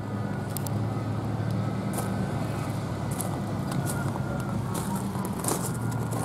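A motor vehicle engine running close by, a steady low hum, with occasional light crunches of footsteps on gravel.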